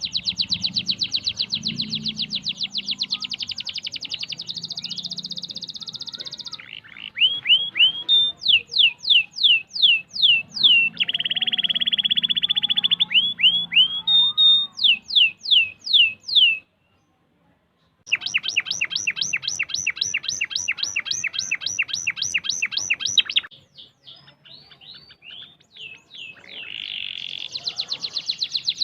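Domestic canary singing in tight, fast rolls: long rapid trills of repeated notes alternating with runs of quick downward-sweeping whistles. The song stops for about a second roughly two-thirds of the way through, then resumes.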